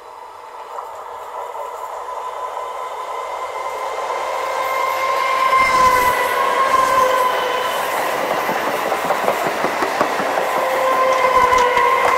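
Electric suburban passenger train approaching and passing close by, growing louder over the first six seconds, with a steady high whine and, once the coaches are alongside, wheels clattering over the rail joints.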